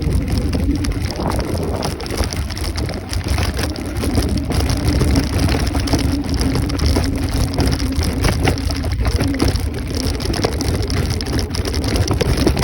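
Wind rushing and buffeting over the microphone of a moving Kaabo Wolf Warrior 11 Pro electric scooter, with a steady hum under it.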